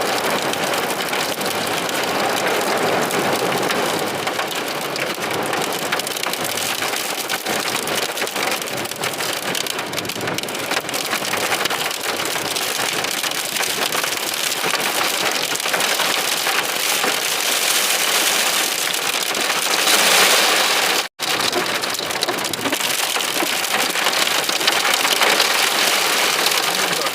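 Heavy storm rain pelting down in a dense, steady patter. It swells louder about three-quarters of the way through, just before a brief break in the sound.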